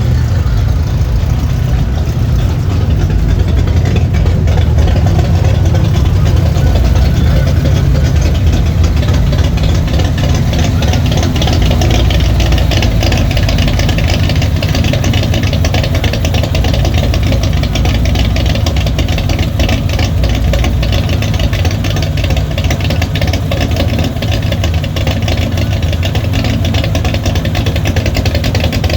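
A car engine idling steadily, with a deep exhaust.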